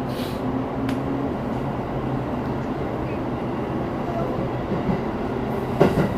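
Steady running rumble of a commuter electric train heard from inside the carriage, with a sharp click about a second in and a knock near the end.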